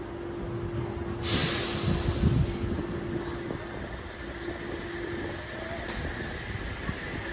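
Oscar H-set electric train standing at the platform: a steady electrical hum and low rumble, then about a second in a sudden sharp hiss of compressed air that fades over the next second or so, after which a steady higher whine continues. A single click is heard about six seconds in.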